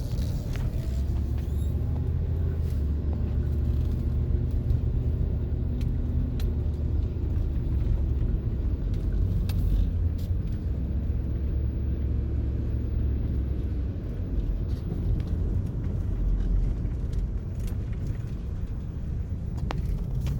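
Car driving at a steady speed: a constant low engine and road rumble.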